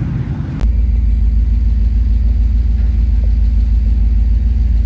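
A car engine running, then, after an abrupt cut about half a second in, a steady loud low rumble of a car on the move.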